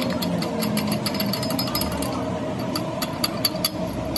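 Workshop machinery running with a steady hum and a rapid, irregular clatter of clicks.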